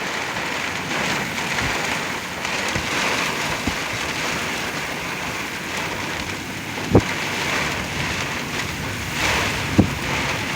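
Very heavy wind-driven rain pelting a truck in a severe thunderstorm, heard from inside the cab as a steady loud hiss and patter. Two sharp knocks come in the second half.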